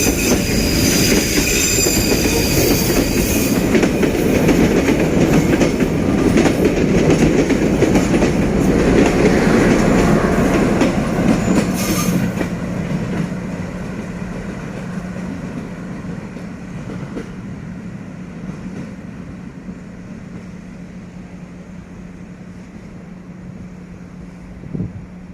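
SE19 passenger train's carriages rolling past with rail clatter, wheels squealing high for the first few seconds. The sound fades steadily from about halfway as the train runs into the tunnel, leaving a steady low hum and a short thump near the end.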